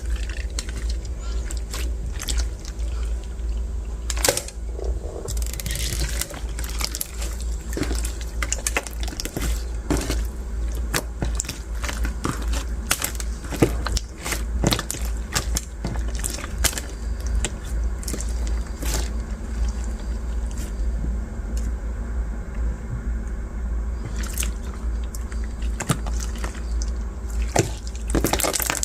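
Hands kneading and pressing translucent bead slime: wet squishing broken by many small crunchy clicks and crackles from the beads, over a steady low hum.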